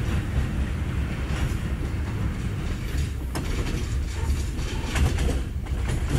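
KTM Senandung passenger train running on the rails, heard from inside a carriage: a steady low rumble of wheels on track, with a few sharp clicks about three and a half and five seconds in.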